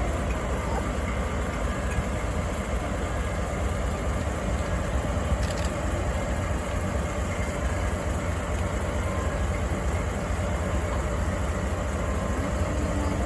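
JNR Class DE10 diesel locomotive idling steadily with a low, even engine sound.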